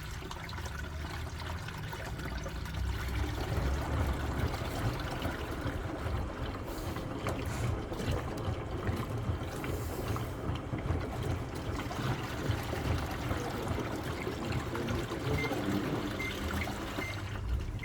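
Fully automatic washing machine on its wash cycle with its drum overfilled: a steady churning and sloshing of water with a low rumble. Near the end come three or four short, high beeps.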